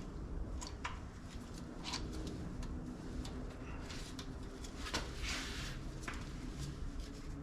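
Scattered light metal clicks and handling noise from a timing chain and sprockets being fitted by hand on an engine, with a short hissing scrape about five seconds in over a steady low hum.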